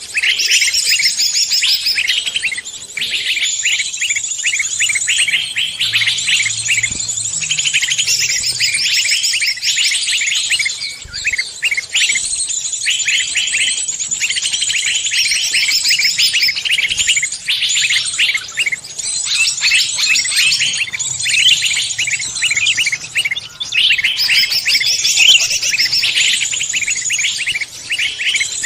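Songbird song: a fast, dense run of high chattering notes and trills, almost unbroken, with a few brief pauses.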